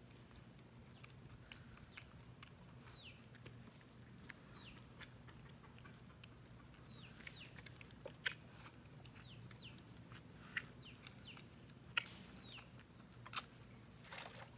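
Faint bird calls: many short, falling chirps. A few sharp clicks stand out above them, the loudest about eight and twelve seconds in, over a low steady hum.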